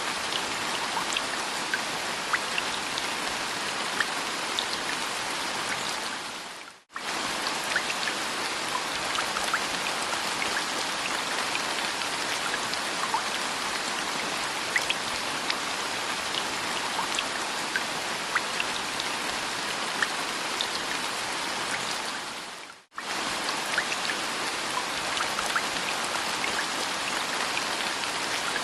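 Steady rain with many separate drops ticking and pattering. Twice, about seven and about twenty-three seconds in, it fades away to near silence and comes straight back.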